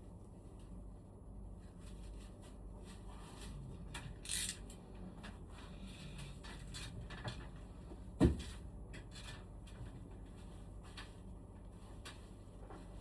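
Handling noises during work on an air conditioner: scattered light clicks and knocks over a low steady hum, a short hiss about four seconds in, and one sharp knock a little after eight seconds.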